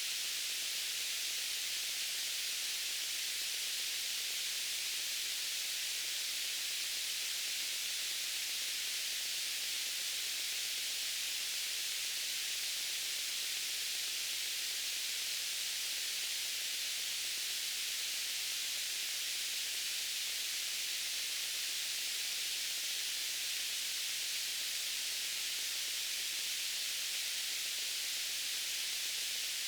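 Steady white-noise hiss, even and unchanging, with most of its energy in the high treble and little low end.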